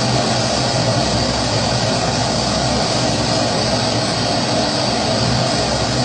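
Pressurised kerosene stove (primus-type burner) burning steadily, an even rushing roar that holds at one level without a break.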